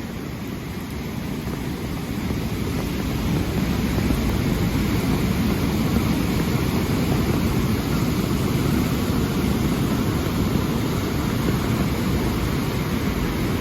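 Swollen river in flood after heavy rain, a steady rush of fast water that grows louder over the first few seconds and then holds.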